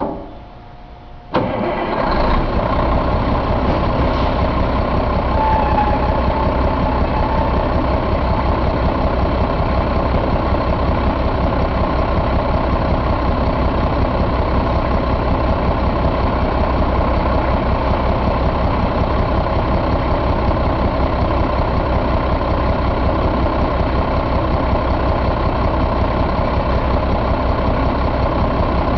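Caterpillar C12 inline-six diesel engine starting about a second in, then settling into a steady idle.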